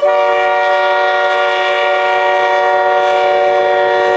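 Train air horn sounding one long, unbroken blast, a chord of several notes held at a steady pitch.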